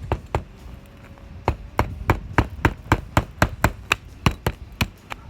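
Hand hammer driving a roofing nail through an asphalt shingle: two blows, a short pause, then a fast, even run of blows at about three to four a second.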